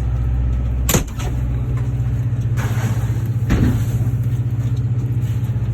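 An engine running steadily with a low, fluttering hum, with a sharp knock about a second in and another knock about three and a half seconds in.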